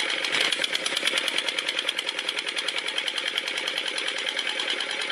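Homemade model of a Kirloskar diesel water-pump engine running with a steady, fast, even rhythmic clatter.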